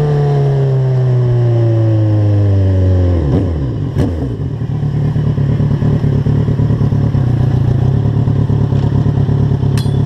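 Motorcycle engine winding down as the bike slows, its pitch falling steadily for about three seconds, then dropping sharply to a steady, lumpy idle. A single click about four seconds in.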